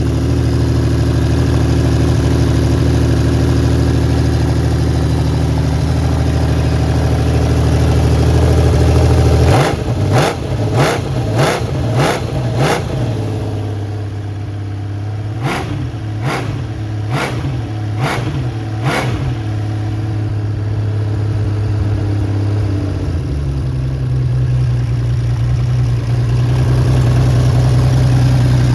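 Honda CBX 1000's air-cooled inline-six engine, breathing through a six-into-six Pipemasters exhaust, idling and then blipped hard: a run of about six quick throttle blips about a third of the way in, and about five more a few seconds later. It settles back to idle, a little faster near the end.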